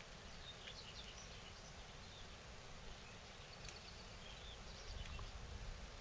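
Faint, scattered bird chirps and short calls over a steady low background noise that swells near the end.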